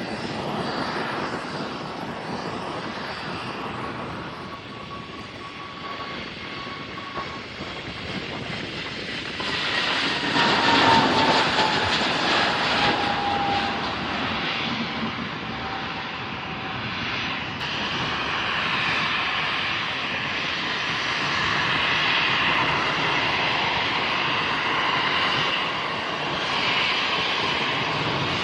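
Airliner engines passing close. The noise swells to its loudest about ten seconds in, with a whine that falls in pitch as the aircraft goes by, then runs on steadily.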